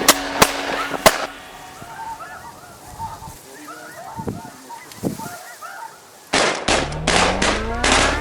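Three shotgun blasts in the first second, then a flock of snow geese calling, many short high yelping honks overlapping. About six seconds in, music cuts in abruptly.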